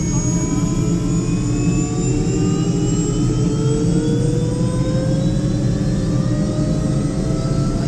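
Helicopter engine and rotor winding up after start, a steady heavy running sound with a whine rising slowly and evenly in pitch as the engine gains speed.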